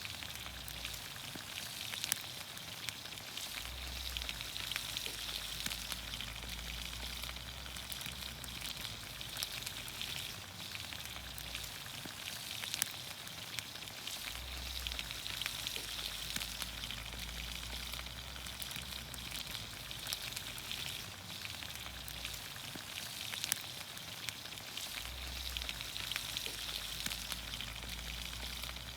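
Vegetables frying in olive oil in a pan over a campfire: a steady sizzling hiss with occasional sharp pops.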